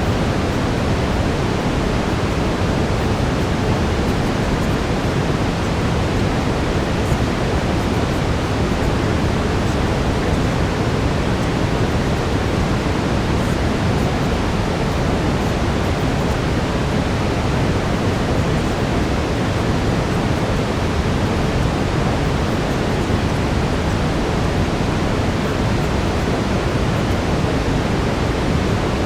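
Steady synthetic brown noise, a deep even hiss heaviest in the low end, with a faint steady tone near 432 Hz laid under it.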